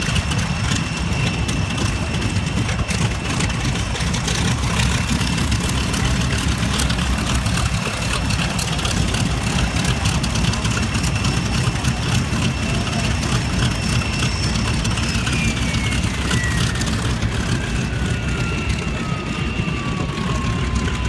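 Aircraft engine running close by with a steady low rumble and a high whine; over the last few seconds a second whine slides steadily down in pitch.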